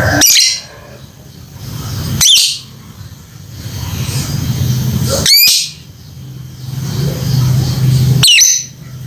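A lovebird giving four short, shrill contact calls two to three seconds apart, calling for its companion. A steady low hum runs underneath between the calls.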